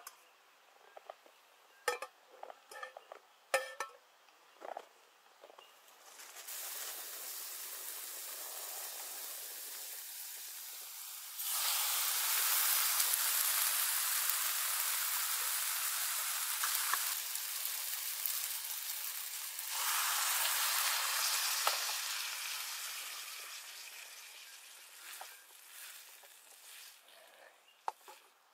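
Food sizzling in a frying pan on a camp stove, with a few clinks of a utensil at first. The sizzle starts, jumps louder partway through and then dies away gradually near the end.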